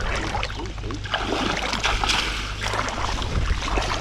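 Wind buffeting the microphone over moving creek water, with a louder rush of water noise for about a second and a half in the middle.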